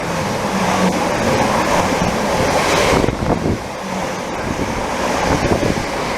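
A Class 745 Stadler electric multiple unit passing through the station without stopping: a loud, steady rush of train noise, with wind buffeting the microphone.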